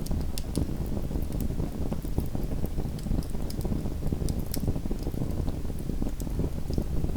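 Small wood fire burning in a fireplace: a steady low rumble of the flames with frequent sharp, irregular crackles and pops from the burning wood.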